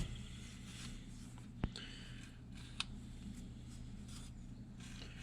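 Quiet handling noises: light rubbing and two short sharp clicks, about a second apart, over a steady low hum.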